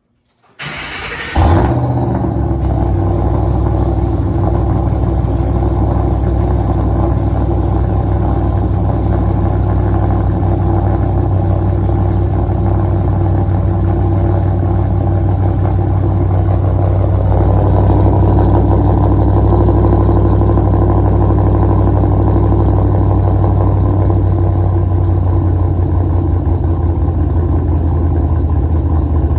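Cold start of a 2007 Ford Mustang GT's 4.6-litre V8 fitted with aftermarket camshafts: a brief crank, the engine catches about a second and a half in, then settles into a loud, steady cold idle. A little past halfway the engine note grows slightly fuller.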